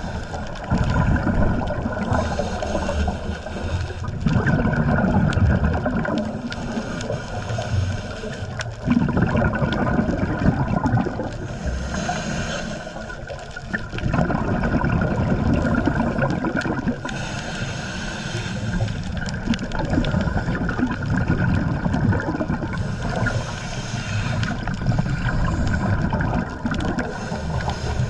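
Underwater sound of a scuba diver's breathing: bubbles from the regulator's exhaust gurgling in bursts every few seconds, over a steady low rumble of water.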